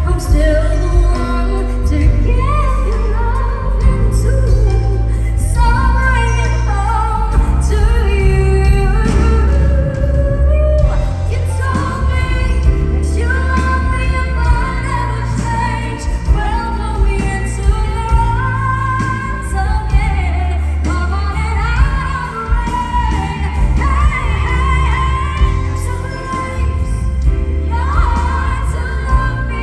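Female vocalists singing a pop song medley over full band accompaniment with a steady bass line, the voices gliding and holding long notes.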